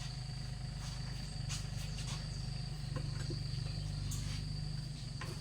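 A steady low drone with a fine, even pulse, under a thin continuous high whine, with a few faint light knocks.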